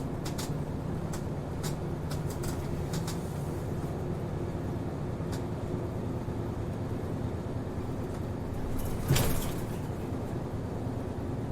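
Route bus running, heard from inside the cabin: a steady low engine drone with scattered clicking rattles. About nine seconds in there is a brief, loud burst of noise.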